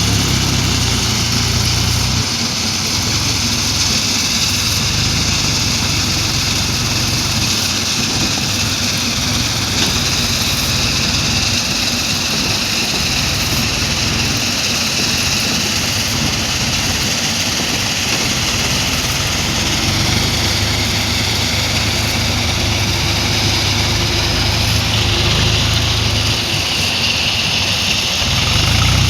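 Tractor engine running steadily, its low hum swelling for a couple of seconds at the start and again for several seconds about two-thirds of the way through.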